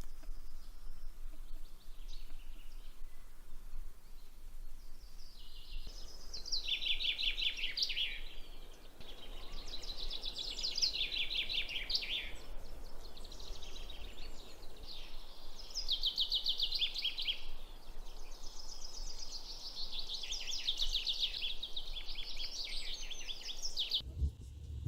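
A songbird singing short trilled phrases, about five of them, each a couple of seconds long, over a steady outdoor hiss. The sound cuts off abruptly near the end.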